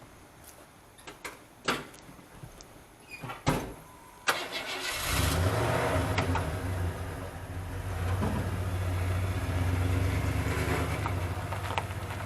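A few clicks and knocks, then a car engine starts about four seconds in and runs steadily.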